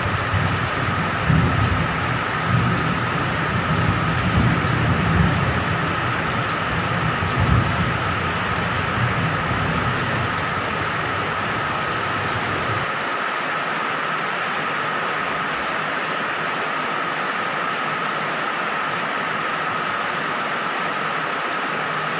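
Steady rain with low rolling thunder rumbling through the first half. The rumble stops abruptly about halfway through, leaving the even hiss of the rain alone.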